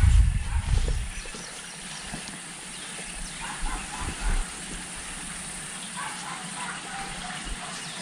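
A few low thumps at the start, then faint, scattered bird calls over a steady outdoor hiss.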